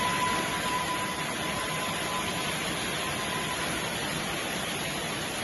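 Steady rain falling, an even wash of noise with no distinct drops standing out. A faint steady tone sits over it for the first half and then fades out.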